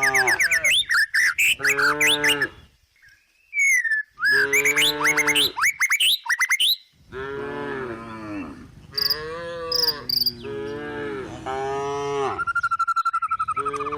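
A cow mooing over and over in long, drawn-out calls with short pauses between them, while small birds chirp in quick high notes.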